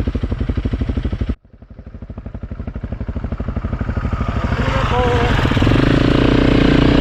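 Single-cylinder trail motorcycle engine running at low revs. About a second and a half in the sound cuts off abruptly, then a motorcycle engine comes back in and grows steadily louder as it draws closer.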